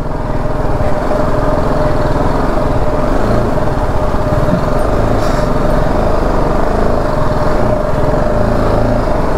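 BMW G 310 GS's single-cylinder engine running at a steady pace as the bike is ridden, with a constant rush of noise over it.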